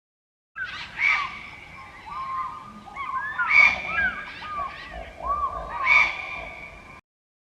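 Birds calling: many short calls that rise and fall in pitch, with three louder calls about a second in, in the middle and near the end. The sound starts and stops abruptly.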